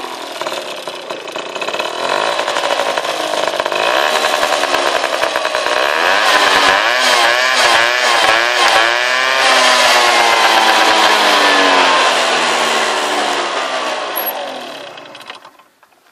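50cc moped engine running and revving through its exhaust, with quick up-and-down blips of the throttle in the middle. It then winds down and fades away near the end.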